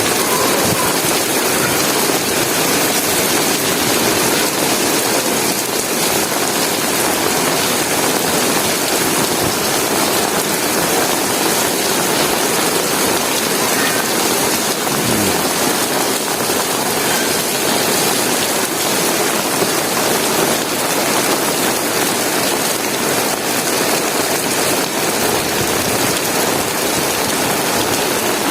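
Heavy rain pouring steadily, a dense, even hiss with no break.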